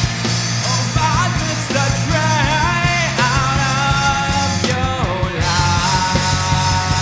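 Progressive hard-rock band playing, with drums, bass and electric guitar and a gliding vocal or lead-guitar melody over them.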